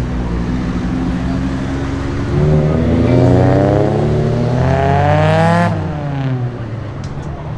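Tuned car's engine accelerating hard: a low rumble, then a rising engine note for about three seconds that drops sharply about two thirds of the way through and fades.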